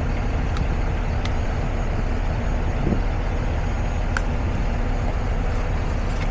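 Semi truck's diesel engine running with a steady low rumble, with a few faint clicks.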